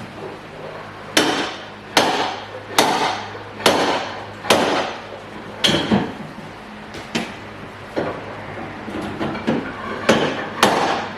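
Slide hammer with a small curved wheel-well hook pulling out a dent in a Subaru Impreza's rear quarter panel: about ten sharp blows of the sliding weight against its stop, roughly one a second at first, then more spaced out.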